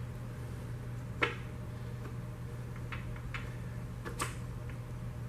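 A few sharp clicks and taps of tools and parts being handled during a 1950 Mercury engine's bottom-end teardown. The loudest tap comes about a second in and lighter ones follow around three and four seconds in, over a steady low hum.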